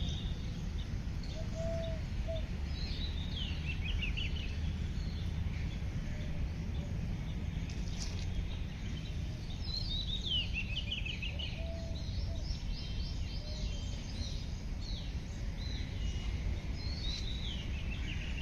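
Wild birds singing: several quick falling phrases of high chirps, about four times, with a few short low calls between them, over a steady low rumble.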